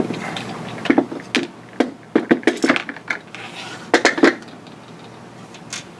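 Hard plastic toy parts clicking and clattering as they are handled and set down while the toy is taken apart: a string of sharp knocks, with small clusters about two seconds in and again about four seconds in.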